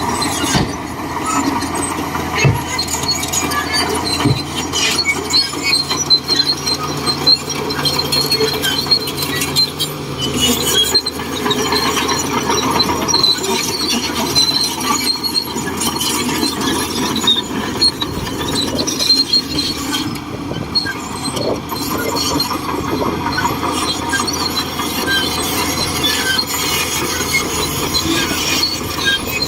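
Shantui DH17C2 crawler bulldozer working, its steel tracks squealing and clanking over its running engine.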